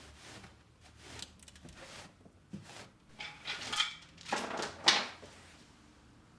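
Household handling noises: a run of scraping and rustling starting about three seconds in, then a sharp knock just before five seconds, which is the loudest sound.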